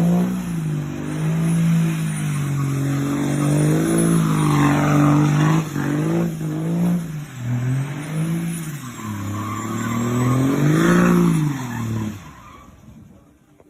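Pickup truck engine revving up and down over and over, fading away near the end.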